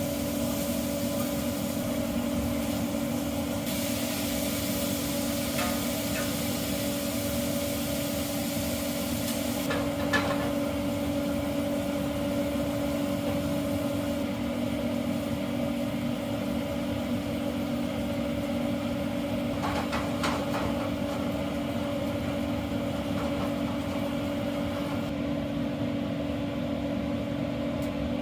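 Steady machine drone with a constant low hum, like an idling engine or a running fan motor, with a few light knocks along the way.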